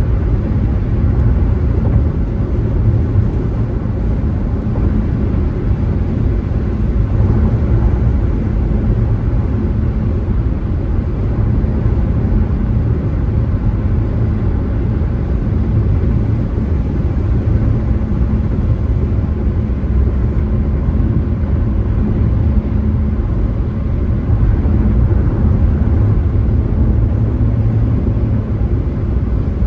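A car driving at steady speed: a constant low rumble of tyres and engine, with a faint steady hum above it and no sudden sounds.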